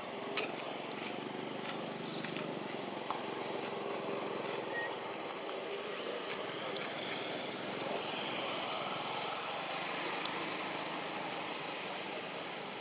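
Outdoor ambience: a steady bed of background noise with a few faint clicks and short, high rising squeaks.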